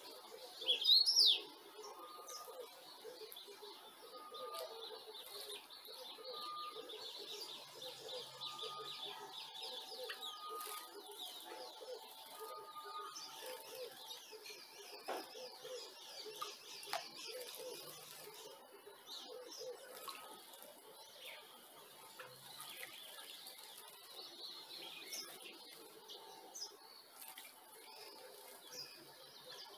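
Small songbirds chirping and chattering, with one loud, sharp call that sweeps up and down in pitch about a second in. Through the first half another bird repeats a short note at a steady pace.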